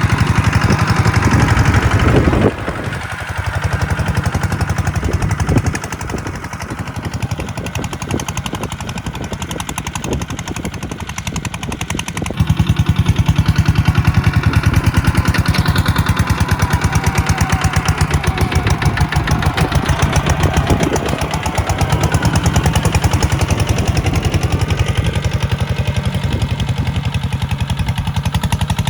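Tractor's diesel engine running with a rapid, even exhaust beat, dropping back about two and a half seconds in and working harder again from about twelve seconds in.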